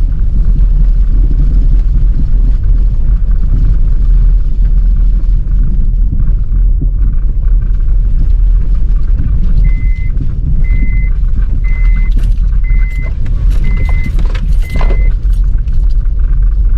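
Honda Pilot SUV driving up a snowy mountain road on snow chains: a steady, loud low rumble of engine and tyres. About ten seconds in, a vehicle chime beeps six times, about once a second, with a few knocks or rattles alongside.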